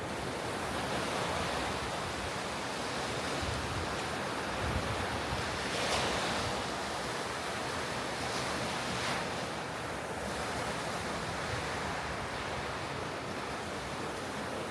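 Ocean surf breaking on a beach, a steady wash of waves with a few swells in loudness about six and nine seconds in, and some wind on the microphone.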